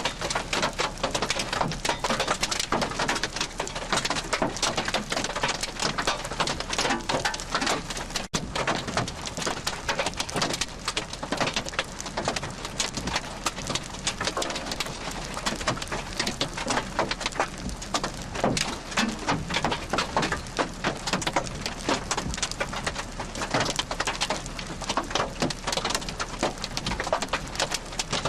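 Steady rain pattering, a dense run of small drop hits, with a brief dropout in the audio about eight seconds in.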